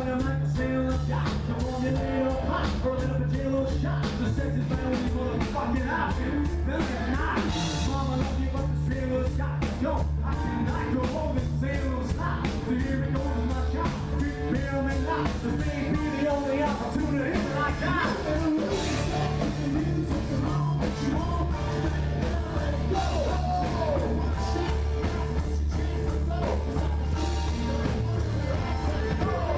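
Live rock band playing amplified music with bass, drums and a steady beat, a voice singing over it at times.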